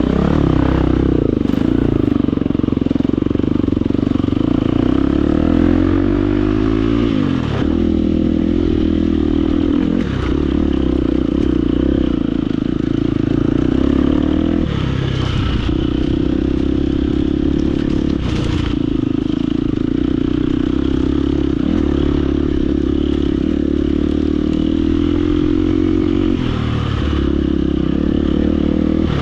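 Husqvarna FE250 four-stroke single-cylinder enduro engine revving up and falling back again and again as the bike climbs over rocks, with clatter and a few sharp knocks from the rocks and chassis.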